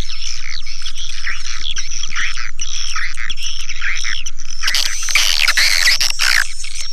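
Swiftlets chirping and twittering in a dense, continuous chorus of rapid calls. About five seconds in, a rougher, noisier burst of chattering lasts about a second and a half.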